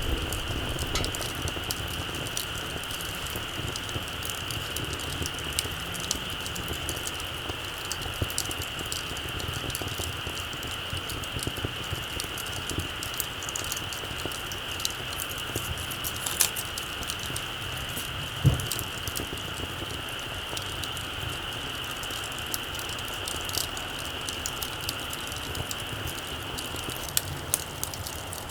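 Small wood campfire crackling, with frequent small snaps and pops over a steady hiss; a sharper pop comes about 16 seconds in and a soft low thump about two seconds later. A steady high-pitched tone runs underneath.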